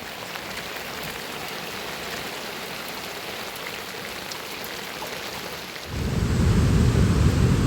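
Steady rain falling, an even hiss. About six seconds in, a much louder low rumble joins it.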